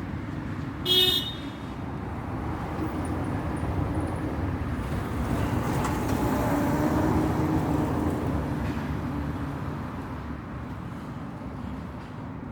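A car horn gives one short toot about a second in, over steady motor-vehicle road noise that swells in the middle and then eases off.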